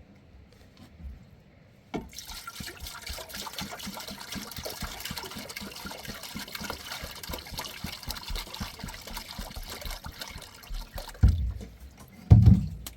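Water pouring and splashing, starting suddenly about two seconds in and stopping after about nine seconds, followed by two heavy low thuds near the end.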